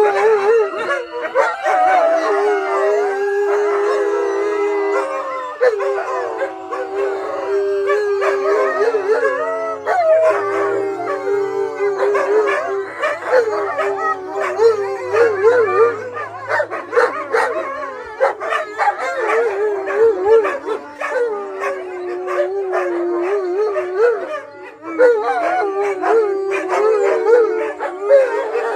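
A pack of wolfdogs howling together in a group howl set off by a siren. Many long howls overlap at different pitches, growing choppier and more wavering from about halfway through.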